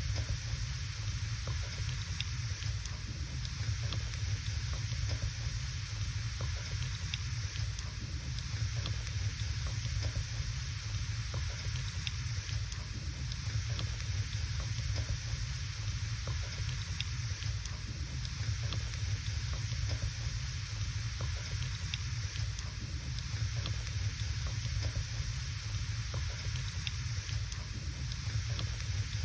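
Wood fire burning in a fireplace: a steady hiss and rush with many small, scattered crackles and pops from the burning logs.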